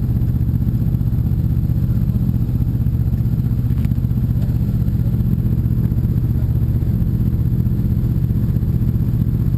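Motorcycle engine running steadily at constant speed.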